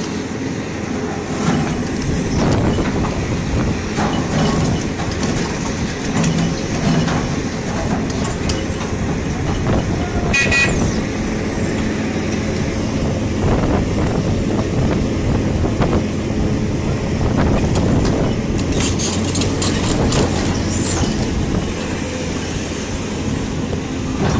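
Heavy machinery or vehicle running, a steady rumble and clatter with scattered knocks, and a brief high tone about halfway through.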